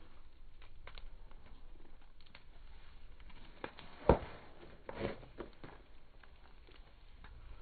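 Bonfire crackling: scattered small pops, with one sharp loud crack about four seconds in and a softer pop a second later.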